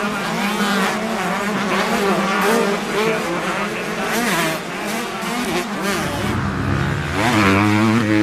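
Motocross bikes on track: several engines revving up and down through gear changes, with one bike coming close about six seconds in, its engine note climbing as it accelerates.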